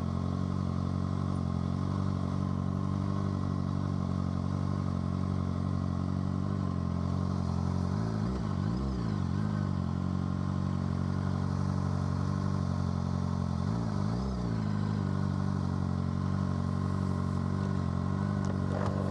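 Suzuki GSX-R600 inline-four with an M4 exhaust idling steadily, heard from the rider's position, with two brief changes in engine pitch about eight and fourteen seconds in.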